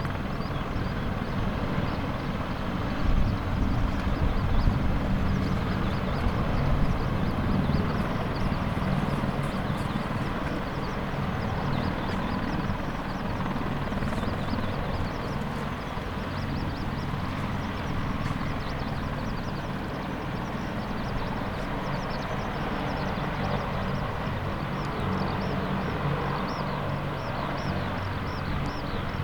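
AH-64D Apache attack helicopter running steadily, its engines and rotors making a continuous low drone.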